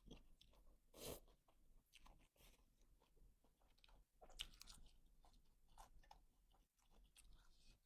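Faint sounds of a person eating nam tok boat noodle soup: chewing with irregular small crunches and clicks.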